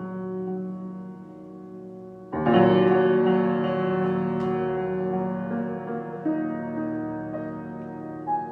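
Improvised solo piano: soft held notes, then a loud chord struck about two seconds in that rings on and slowly fades, with new notes added over it near the end.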